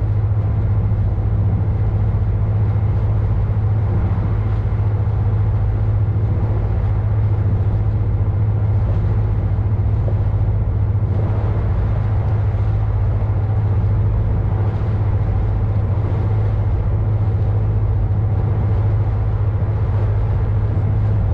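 Steady low drone of a ship's engine, with a constant rushing noise over it.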